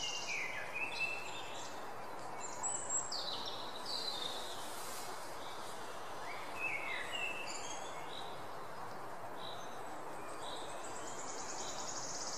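Birds chirping in short, falling calls over a steady outdoor hiss, with a high, pulsing buzz at the start and again near the end.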